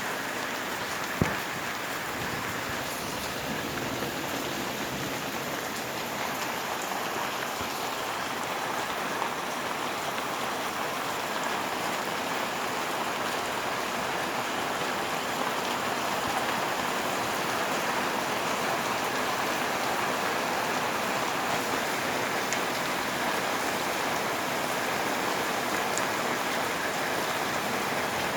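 Heavy thunderstorm rain falling steadily, growing slightly louder, with one sharp click about a second in.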